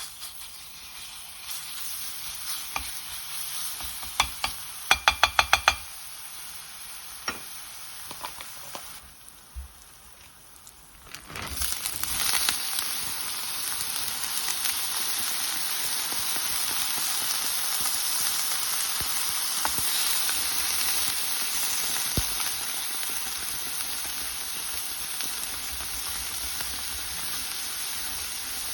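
Food frying in a hot pan. A moderate sizzle with a quick run of about seven sharp clicks near the five-second mark, then the sizzle jumps much louder about eleven seconds in and stays steady.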